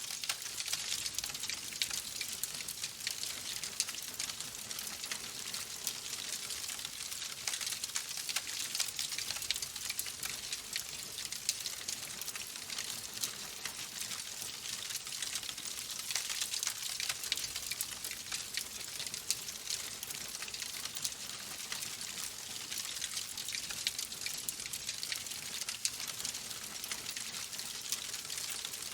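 Wood fire crackling steadily: a constant hiss of burning logs with dense, irregular small pops and snaps.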